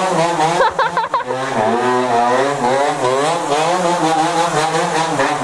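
Dirt bike engines running under way, their pitch rising and falling with the throttle, with a few quick revs about a second in.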